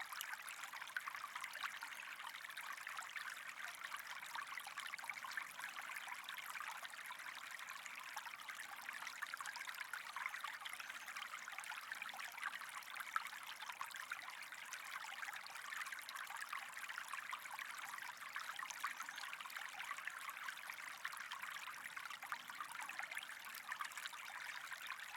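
Steady sound of running, trickling water, an even hiss with no let-up.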